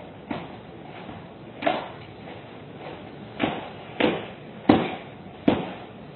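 Six sharp knocks or thumps at uneven spacing, the loudest about two-thirds of the way through.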